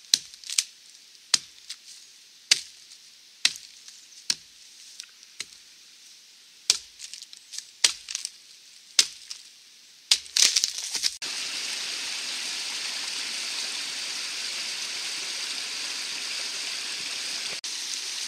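A Wetterlings Wildlife hatchet chopping into a dry, dead standing tree: about a dozen sharp chops, roughly one a second. About eleven seconds in, the chopping gives way to a shallow stream running over stones, a steady rush of water.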